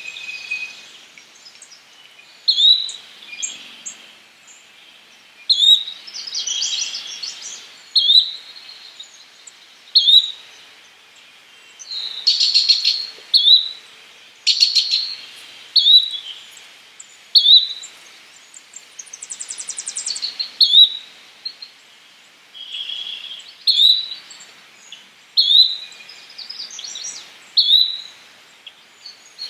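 Yellow-bellied flycatcher calling: a short sharp note repeated about every two seconds. Rapid trills and a buzzy rattle from other birds come in between the notes.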